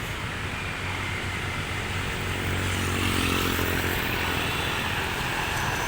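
City street traffic with a motor engine passing, its drone swelling and fading about three seconds in.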